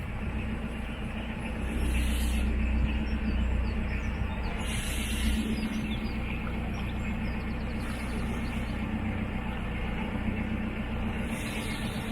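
Narrowboat's diesel engine running steadily underway, a little louder from about two to six seconds in.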